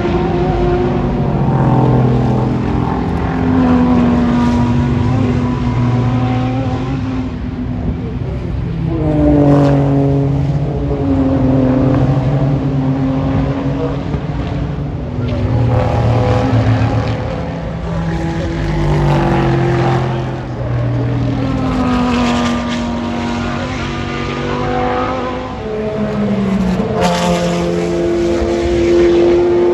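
Race cars passing one after another at full racing speed, several engines overlapping. Their engine notes rise and drop repeatedly through gear changes, and the sound swells and fades as each car goes by.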